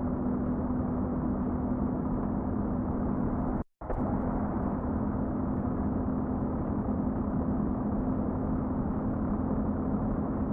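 A truck running with a steady drone and a steady low hum. The sound cuts out completely for a moment just under four seconds in, then resumes unchanged.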